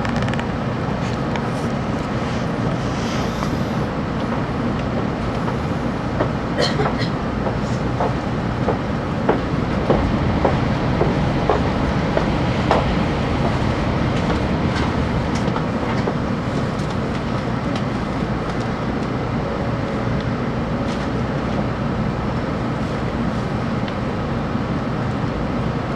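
Steady rumble and rush of a 700-series Hikari Rail Star Shinkansen train running, with a run of sharp clicks about a quarter to halfway through.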